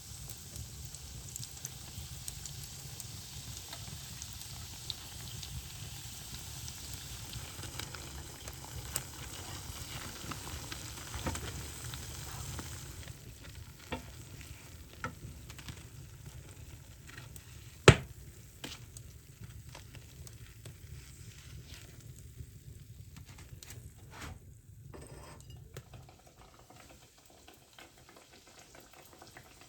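Donuts frying in hot oil, sizzling and crackling; the sizzle drops lower a little before halfway, leaving scattered pops. One sharp knock a little past halfway is the loudest sound.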